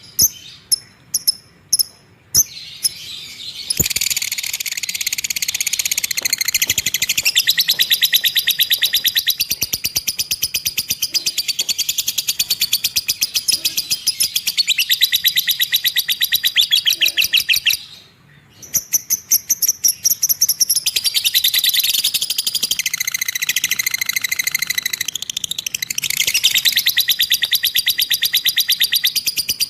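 A bird singing: a few separate high chirps, then long, very rapid chattering trills that run on for over ten seconds, break off briefly about two-thirds of the way through, then start again.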